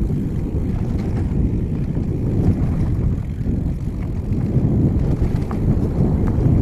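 Wind buffeting the microphone while a mountain bike is ridden along a sandy singletrack trail, with tyre and trail noise underneath and a few faint ticks from the bike.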